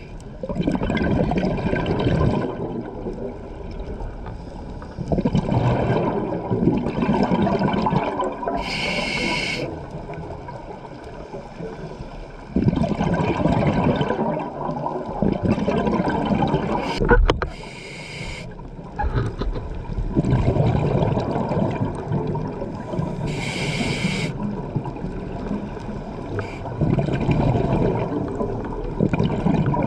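A scuba diver breathing through a regulator, heard underwater: a short hiss on each inhale every several seconds, followed by a long rush of exhaled bubbles.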